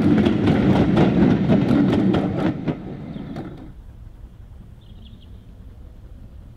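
Passenger coaches of a steam-hauled train rolling past close by, the wheels clicking rhythmically over the rail joints at about four or five clicks a second over a heavy rumble. About two and a half seconds in the sound falls away sharply to a faint low rumble, with one brief high chirp later on.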